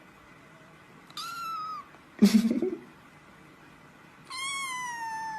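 Cat meowing twice: a short meow about a second in and a longer meow with slowly falling pitch near the end. Between them, about two seconds in, comes a loud, sudden noise, the loudest sound here.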